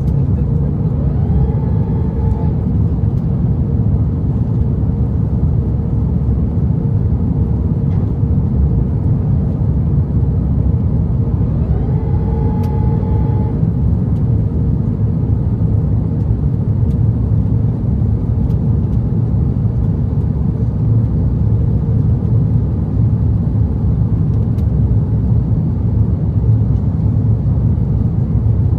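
Cabin noise inside an Airbus A330-900neo, its Rolls-Royce Trent 7000 engines and airflow making a loud, steady low rumble with a steady hum. Twice, about a second and a half in and again about twelve seconds in, a short whine rises and then holds for a moment.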